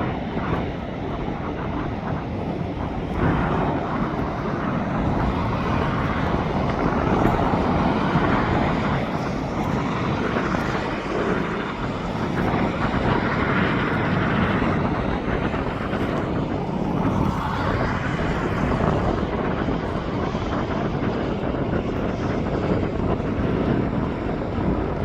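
Jet airliner engines running in the distance, a steady noisy rumble that swells and eases back a few times.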